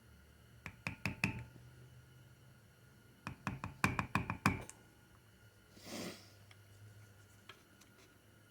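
Hand tools knocking and tapping on metal 4L60E transmission parts: two quick clusters of sharp metallic taps, each ringing briefly. A short rushing noise follows about six seconds in.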